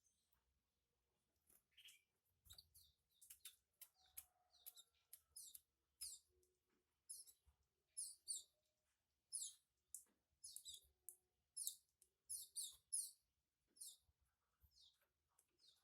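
Canaries chirping faintly: a run of short, high cheeps, each falling in pitch, about two or three a second, starting about two seconds in.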